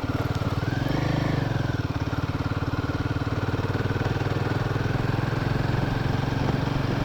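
Motorcycle engine running steadily at low speed on a rough off-road track, with a brief rise and fall in revs about a second in.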